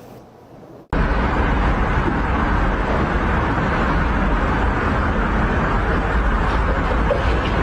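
Loud steady noise with a deep rumble and hiss, starting abruptly about a second in.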